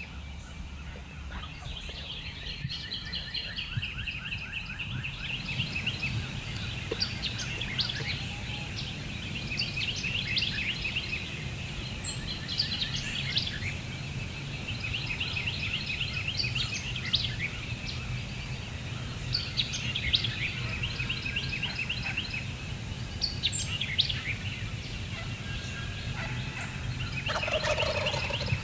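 Wild turkey gobblers (Eastern wild turkey) gobbling over and over, one rattling gobble after another, with a few short songbird chirps in between.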